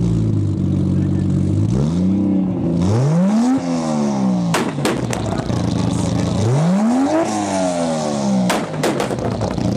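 Modified turbocharged Toyota Supra engine idling, then revved hard twice, each time climbing fast and falling back. As the revs drop, the exhaust gives two sharp cracks after each rev.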